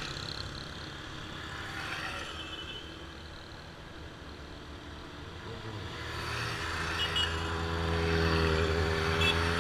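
Motorcycle engines running. The sound dips in the middle, then one engine grows steadily louder from about six seconds in as it comes closer.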